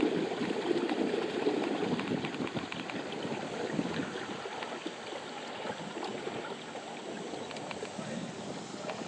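Water rushing and splashing along the hull of a fishing kayak running at full speed on its trolling motor. It is louder for the first couple of seconds, then settles to a steady rush.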